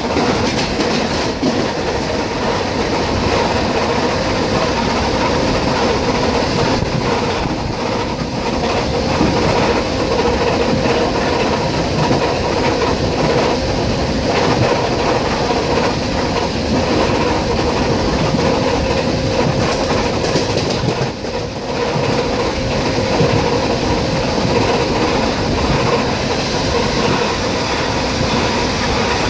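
ER9T electric multiple unit running at speed, its wheels clacking over rail joints over a loud continuous rumble with a steady hum underneath.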